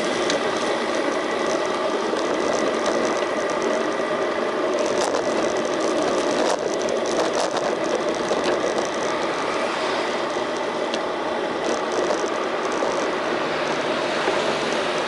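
Bicycle in motion, heard through a bike-mounted action camera: a steady mechanical rattle and ticking from the drivetrain and road, with a few sharper clicks around the middle.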